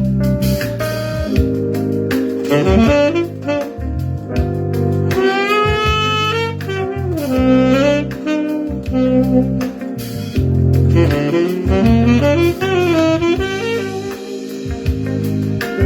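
Tenor saxophone playing a jazzy melody with bends and slides between notes, over a backing track with a walking bass line and light percussion.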